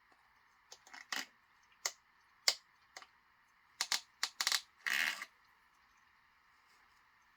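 Hard plastic containers and lids being handled: about a dozen sharp clicks and taps come irregularly over some four seconds, ending in a short rasp.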